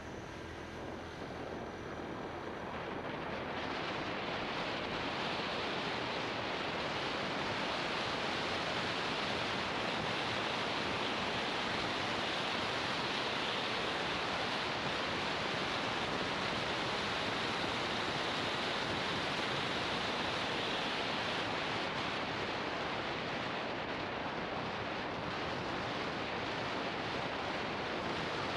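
Steady rush of wind over an action camera's microphone on a moving motorbike, growing louder over the first few seconds as speed builds; a faint engine hum is heard at the start before the wind covers it.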